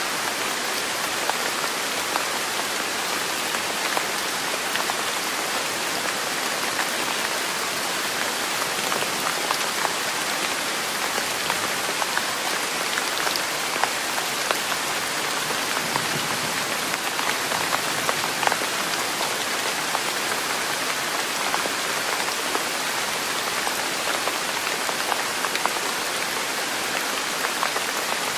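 Steady rain falling on a surface: an even hiss with scattered faint drop ticks.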